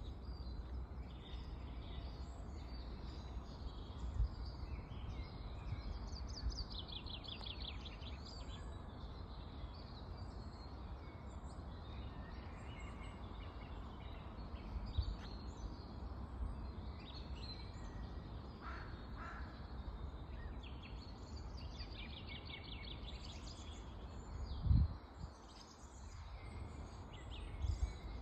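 A spring chorus of several songbirds singing and calling at once, with fast repeated trills among them and a couple of lower calls partway through, over a steady low rumble. A single sharp thump near the end is the loudest sound.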